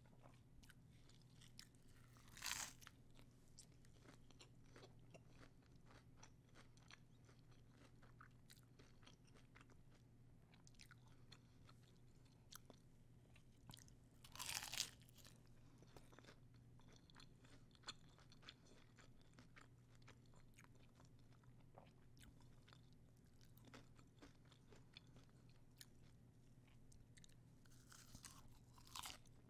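Quiet close-up chewing of crunchy taco shells: many small crunches throughout, with three louder crunches about two and a half, fourteen and a half, and twenty-nine seconds in.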